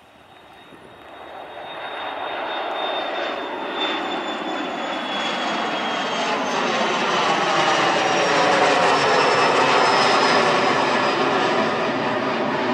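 Airliner engines growing from faint to loud as the aircraft comes closer, with a high whine that slowly falls in pitch.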